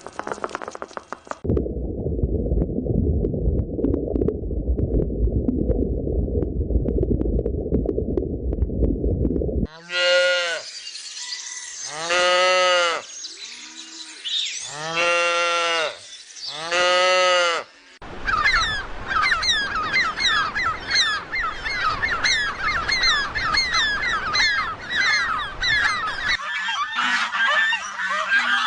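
A low rumbling noise for several seconds, then about four long goose honks, each rising and falling in pitch, followed by a dense stretch of high, quick chirping.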